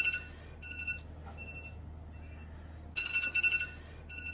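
A mobile phone's electronic ringtone: a bright two-pitch chime phrase that sounds loudly, comes back fainter twice, and starts over loudly about three seconds in. A steady low hum runs underneath.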